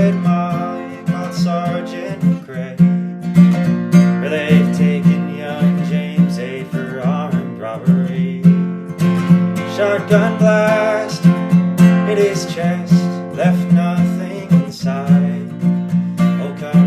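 Acoustic guitar playing a busy picked pattern over a repeated low bass note.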